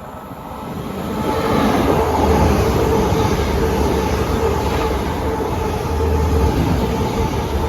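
Two coupled GWR Class 802 bi-mode trains passing through the station at speed without stopping. The sound builds over the first second or so into a loud, steady rush of wheels and rail with an even hum.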